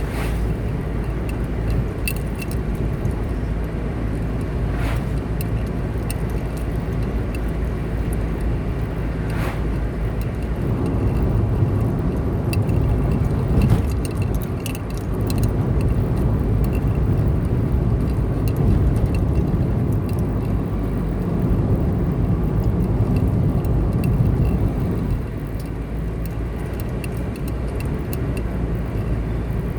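Car driving along a highway: steady engine and tyre noise, which grows louder about a third of the way in and eases off again near the end, with a few light clicks or rattles.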